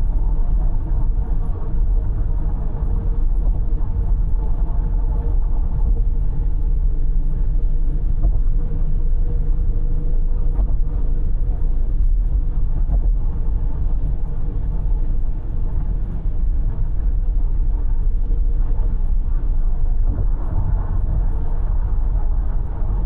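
Car cruising at expressway speed: a steady low rumble of tyres and engine with no changes.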